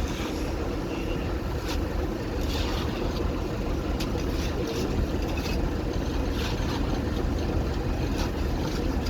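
Construction machinery engine running steadily with a low rumble, with short hissing or scraping sounds now and then on top.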